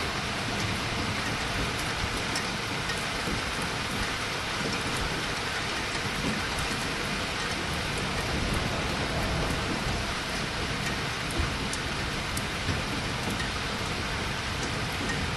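Steady rain falling during a thunderstorm, a constant hiss with scattered sharp drop ticks.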